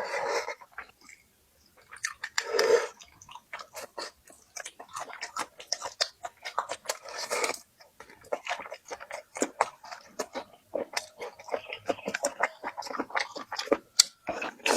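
A person chewing and biting food close to the microphone: a dense, irregular run of sharp mouth clicks, with a few short louder bursts.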